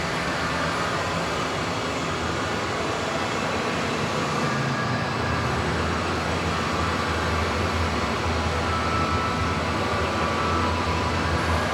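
Steady rumbling background noise with hiss, a low hum growing a little stronger about five seconds in.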